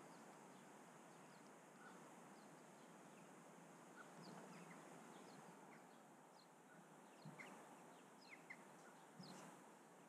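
Faint outdoor garden ambience: scattered short, high chirps of small birds over a low steady hiss, with a few soft taps in the second half.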